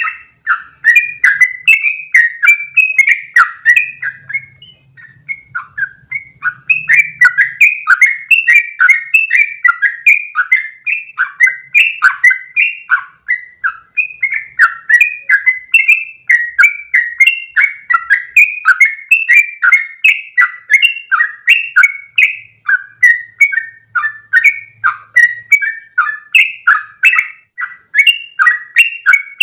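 Yellow-vented bulbul (trucukan) singing a long, fast run of bubbling, warbling notes several per second, the rapid continuous 'ropel' song, with a short pause about four seconds in.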